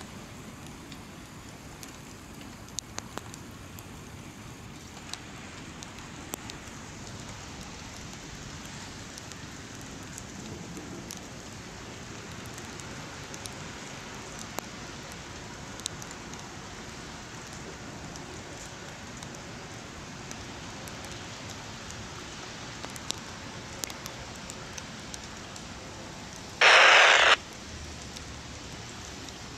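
Steady hiss of light rain with scattered drip taps. Near the end comes one loud burst of static, about half a second long, from a scanner radio.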